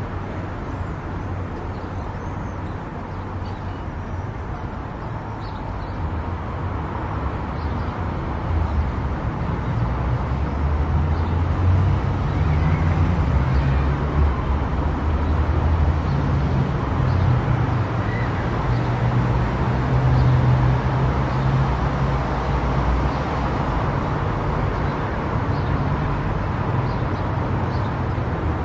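Car driving at highway speed: a steady road and tyre rumble with engine drone, growing louder about a quarter of the way in and staying up.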